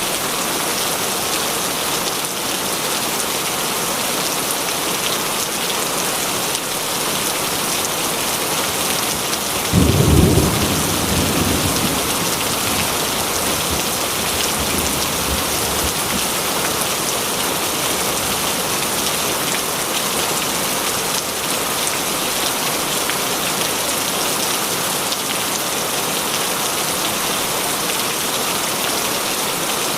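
Steady heavy rain, with one clap of thunder about ten seconds in that rumbles low and dies away over several seconds.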